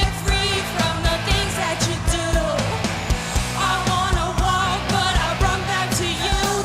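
A pop-rock song: a singer holding long notes with vibrato over a band backing with a steady drum beat.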